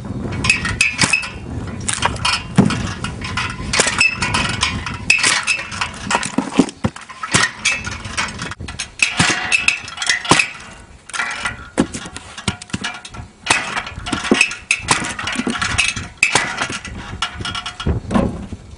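Firewood being split: a rapid, irregular run of sharp knocks and cracks mixed with metallic clinks.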